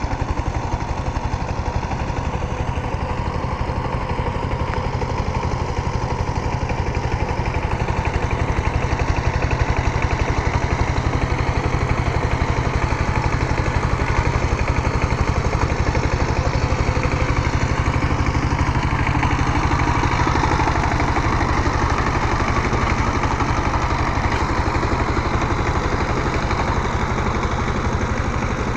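Power tiller engine running steadily with an even rapid firing pulse, getting a little louder about eight seconds in.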